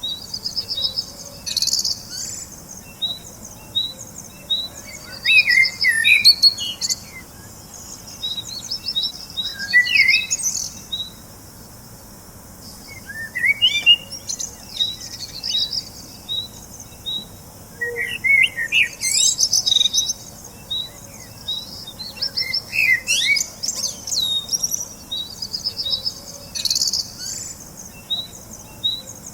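Small birds chirping and twittering, several calls overlapping: runs of short, evenly repeated high notes mixed with quicker twittering phrases, with a brief lull partway through.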